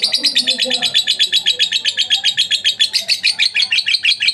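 Lovebird singing a long, fast, unbroken run of high chirps, about ten a second. It is a lure recording, played so that other lovebirds answer and sing more.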